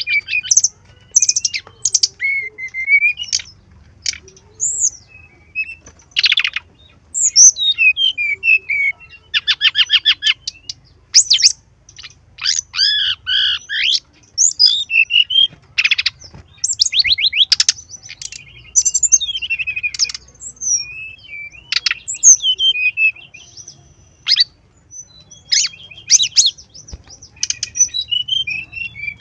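Brown-chested jungle flycatcher singing: a string of short, varied whistled phrases, chirps and rapid trills, one after another with brief gaps.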